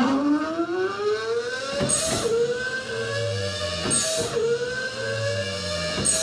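Car engine accelerating and shifting up through the gears: its pitch rises steadily for about two seconds, then drops at each shift with a short hissing burst, three times.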